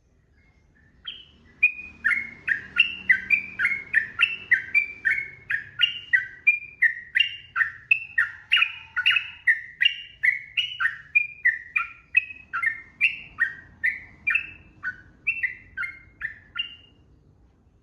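Sooty-headed bulbul (trucukan) singing a long unbroken run of quick falling notes, about two a second. It starts about a second in and stops near the end.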